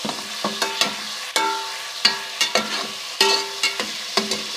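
Garlic-ginger paste and onions sizzling in hot ghee while being stirred, the spoon knocking and clinking irregularly against the pot about a dozen times, each knock ringing briefly.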